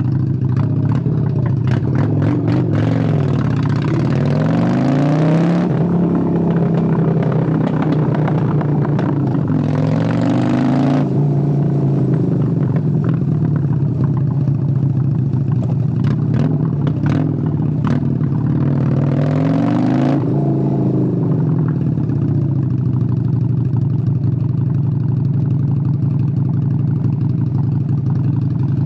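1997 Honda Steed 600 (Shadow VLX 600) V-twin engine running, rising and falling in pitch a few times as it revs through the first two-thirds, with a few sharp clicks among them, then holding steady near the end.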